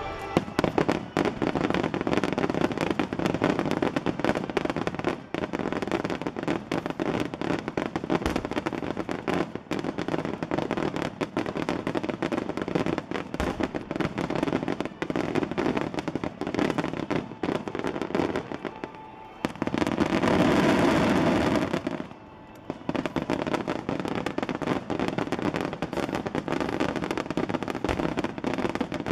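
Fireworks finale barrage: a dense, rapid run of bangs and crackle, shots following close on one another. About two-thirds of the way through there is a louder, unbroken rush for about two seconds before the bangs resume.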